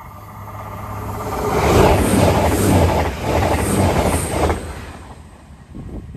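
CrossCountry passenger train passing at speed. Its noise builds, peaks for about three seconds with rhythmic wheel clatter, then fades as it goes away.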